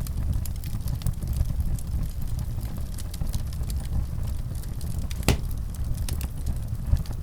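Wood fire burning in a fireplace: scattered crackles over a low rumble, with one sharp, louder pop about five seconds in.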